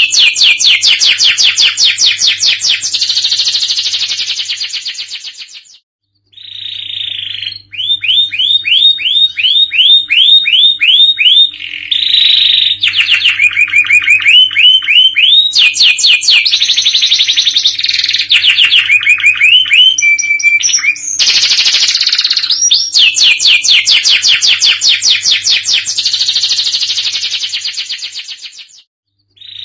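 Domestic canary singing continuously in long rapid trills, each run a fast string of repeated notes that changes pitch and pattern from one phrase to the next. There is a short pause about six seconds in and another near the end.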